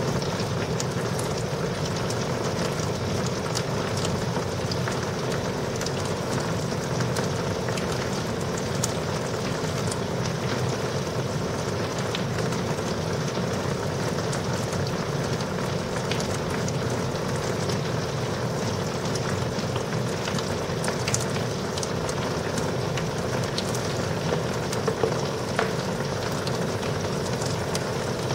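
Steady heavy rain falling during a night thunderstorm, an even hiss with scattered sharp ticks of nearby drops striking a surface.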